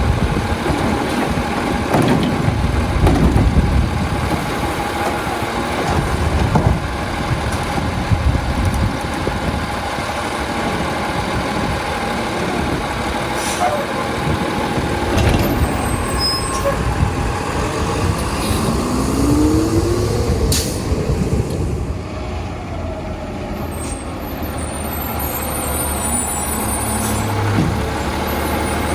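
Autocar garbage truck with a Labrie side-load body, its diesel engine running with changing revs and a couple of short air-brake hisses.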